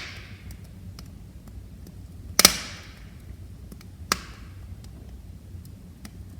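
Wood fire crackling in a fireplace: a loud double pop about two and a half seconds in and another sharp pop about four seconds in, with small faint ticks between, over a low steady rumble.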